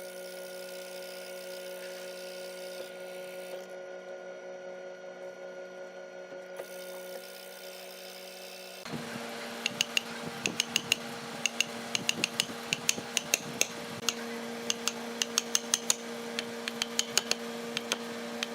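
Woodworking shop tools: a machine hums steadily on a few fixed tones. About nine seconds in, the sound changes abruptly to another steady hum with rapid, irregular sharp clicks and taps from tool work on wood.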